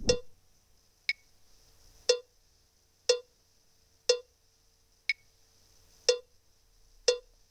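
Metronome-like ticking in a song's intro, one click a second, each with a short ring, every fourth click higher-pitched and softer, marking four beats to the bar.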